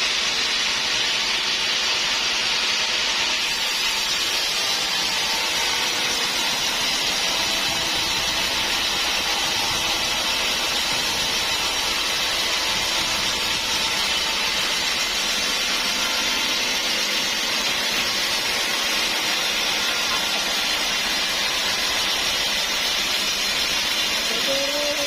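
Sawmill running steadily through hard acacia wood, a continuous even hiss with a faint hum under it.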